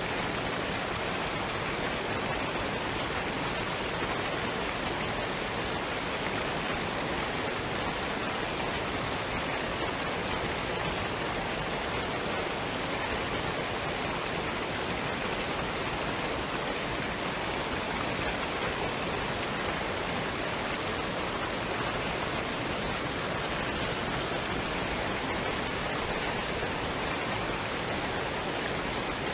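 Waterfall and stream water rushing, a steady, even noise with no distinct splashes or changes.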